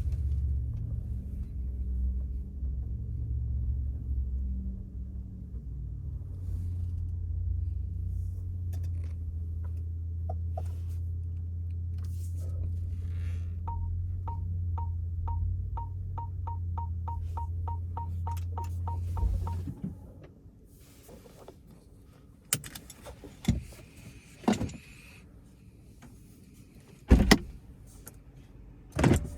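Porsche Taycan cabin with a steady low road and tyre rumble. A run of short, evenly pitched parking-sensor beeps comes quicker and quicker as the car closes on an obstacle. Then the car stops, the rumble cuts out about two-thirds of the way in, and several sharp clicks and thumps follow.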